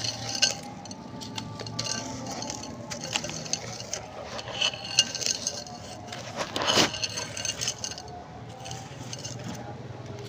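Pink chalk with a sandy, stony texture being crumbled, giving many small crunches and clinks, with the loudest crackle about seven seconds in.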